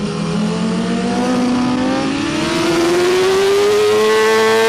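BMW S1000RR's inline-four engine accelerating hard, its pitch rising steadily for about four seconds, then dipping slightly near the end as it shifts up a gear. Wind noise rushes underneath.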